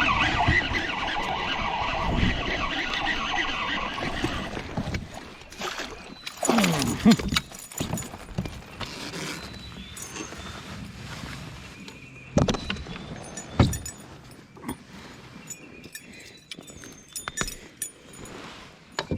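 A hooked bass splashing at the surface beside a kayak, then a couple of sharp knocks on the kayak as it is landed.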